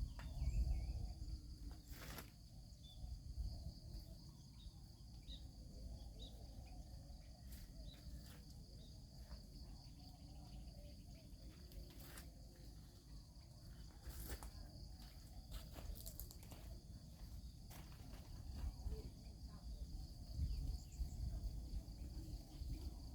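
Insects chirring steadily in one even high drone, over a low rumble, with scattered short clicks and knocks.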